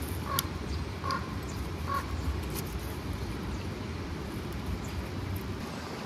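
A bird calls three times, about a second apart, over a steady low rumble, with a sharp click near the start.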